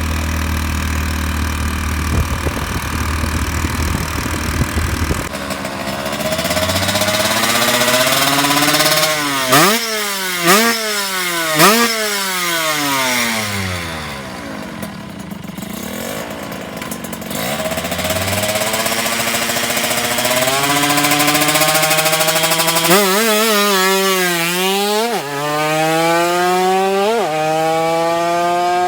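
Kawasaki Ninja RR 150cc two-stroke engine being ridden hard: its pitch climbs through the gears, dropping sharply at several quick gear changes, falls away as the throttle eases in the middle, then climbs through the gears again. The bike runs its stock exhaust, which has a leak.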